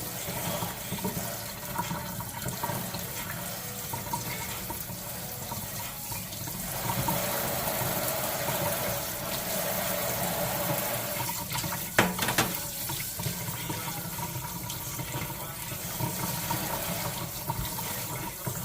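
Water running steadily from a newly installed kitchen faucet into the sink while the hot side is run until it warms up. About twelve seconds in there is one sharp knock.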